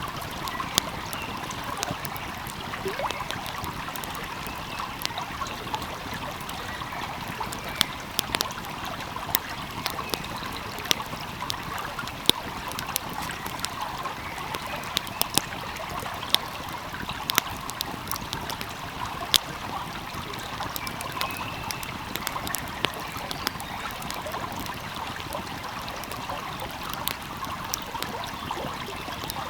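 A wood fire crackling, with frequent sharp, irregular pops, over the steady rush and trickle of a small flowing stream.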